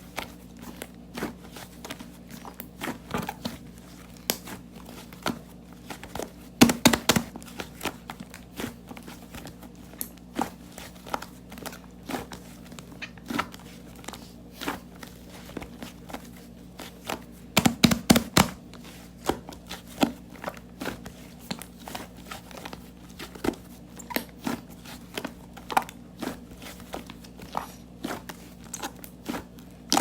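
Toy slime being squeezed, stretched and poked by hand, giving irregular sharp crackling clicks and pops. Dense runs of clicks come about 7 seconds in and again about 18 seconds in, over a steady low hum.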